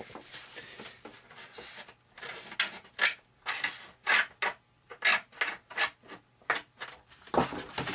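Rhythmic rubbing strokes, about two a second and starting about two seconds in, as excess epoxy is wiped off a glued joint in a model airplane kit.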